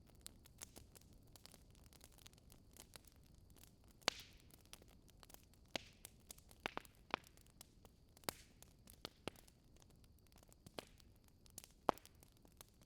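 Wood fire in a fireplace crackling faintly, with irregular sharp pops over a low hiss; the loudest pops come about four seconds in and near the end, the first trailing off in a brief hiss.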